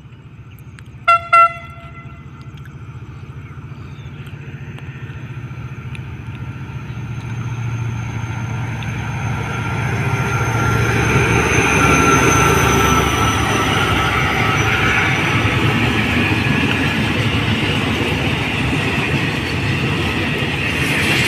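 Diesel locomotive horn sounding two short blasts about a second in. The locomotive's engine then grows louder as it approaches and passes, followed by the steady rolling noise of a long container train's wagons going by.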